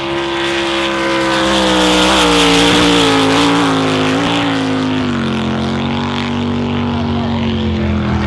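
Drag boat engine at full throttle on a quarter-mile pass, a steady, loud engine note whose pitch slowly falls through the run. It is loudest about two to three seconds in.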